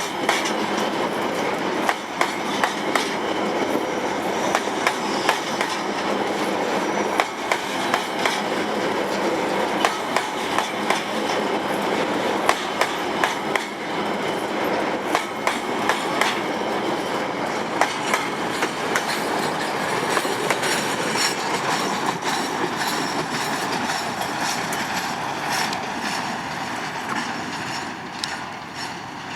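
Loaded freight wagons rolling past on the rails, a steady rumble with many sharp, irregular clacks of wheels over rail joints. The sound eases off in the last few seconds.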